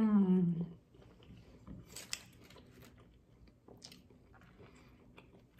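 A short falling "mmm" of enjoyment, then close-up chewing of lobster tail meat, with soft mouth clicks and a couple of wet smacks, about 2 and 4 seconds in.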